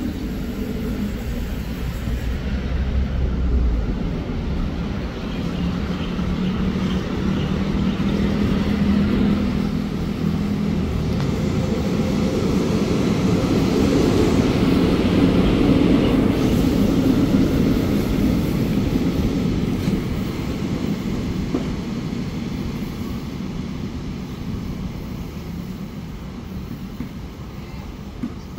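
Diesel railcar train passing on the curve: a steady engine drone and rumble that grows to its loudest about halfway through, then slowly fades as the train pulls away.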